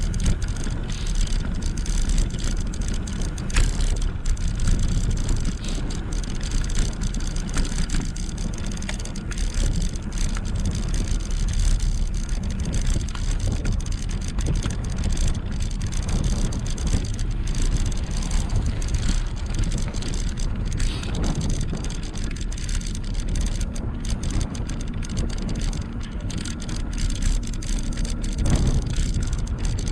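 Steady wind noise buffeting an action-camera microphone, with low rumble from an e-bike in motion.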